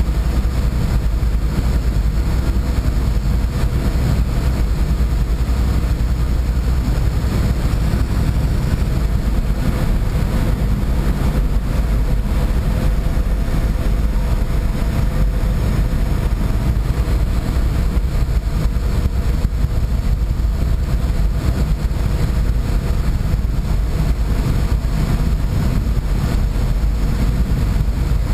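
Boat under way with its engine running: a steady, unbroken low rumble with a faint steady hum above it.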